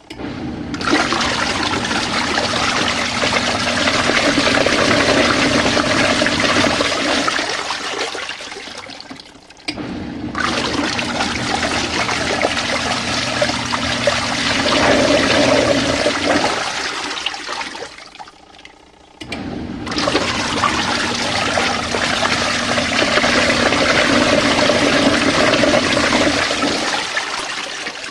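Small portable washing machine agitating a load in water: three long spells of churning and sloshing, each about eight or nine seconds, with a short pause between them as the agitator stops and reverses, over a faint motor hum.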